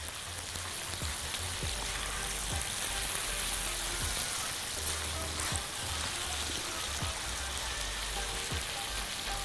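Orzo with diced onion and carrot frying in a pot, a steady sizzle as it is stirred with a silicone spatula.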